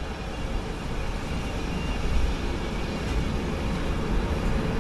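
Passenger train pulling away and picking up speed, heard from inside the carriage as a low running rumble that grows steadily louder.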